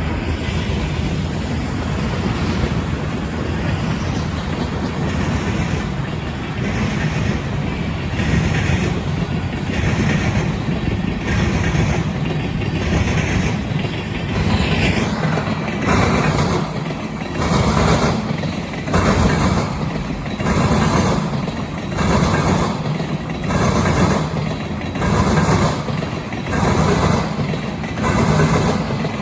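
Freight cars of a CSX rail train rolling past, with a steady low rumble and a rhythmic clatter of wheels recurring about once every second and a quarter, louder in the second half.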